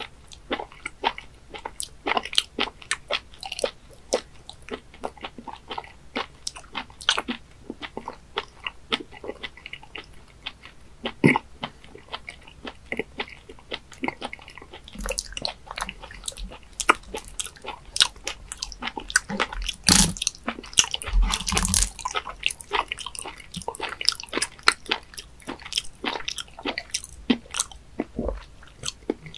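Close-miked chewing of raw webfoot octopus: a steady run of many quick clicks and smacks from the mouth, getting louder and busier about two-thirds of the way through.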